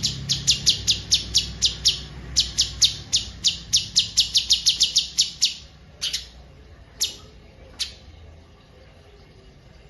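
A songbird repeating a rapid run of sharp, high, descending notes at about four to five a second, which stops about five and a half seconds in and is followed by three single notes about a second apart.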